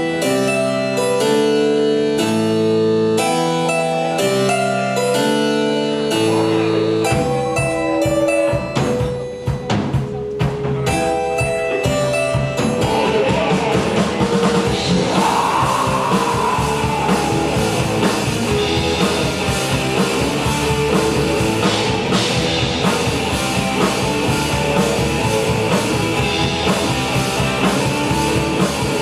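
Rock band playing: a few seconds of held chord notes, then drums come in about seven seconds in and the full band with guitars plays from about thirteen seconds on.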